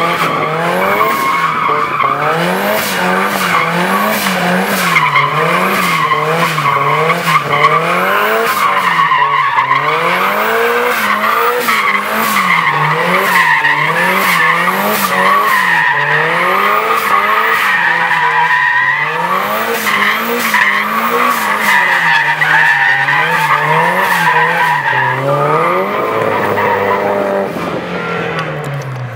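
Nissan 240SX drifting: its engine revs rise and fall about every second and a half as it holds a slide, over a steady squeal of the rear tyres. The revs drop off near the end.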